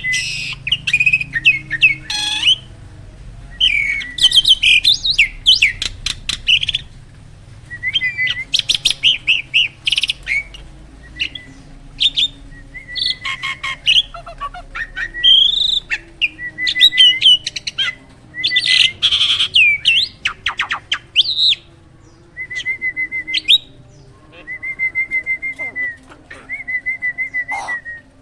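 Hybrid jalak starling singing busily: phrase after phrase of rapid chattering and clicking notes mixed with whistles, with short pauses between them. Often a short trill on one steady pitch opens a phrase.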